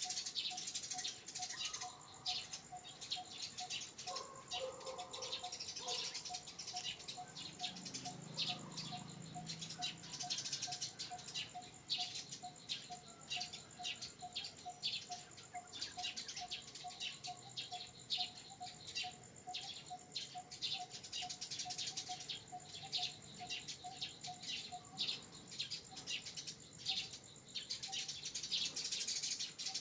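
Outdoor ambience of many birds chirping over a steady high insect whine. A mid-pitched note repeats a few times a second, steady as a call, then stops about 25 seconds in.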